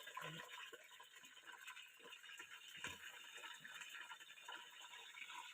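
Near silence, with a faint steady sizzle of onions and green chilies frying in oil in a cooking pot and a few soft ticks.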